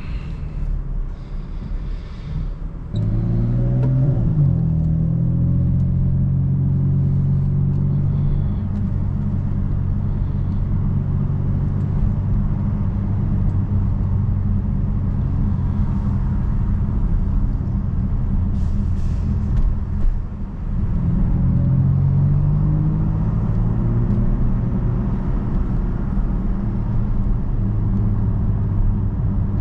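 BMW F82 M4's twin-turbo inline-six engine pulling under way. The engine note steps up about three seconds in and holds steady, dips briefly about two-thirds of the way through, then rises again.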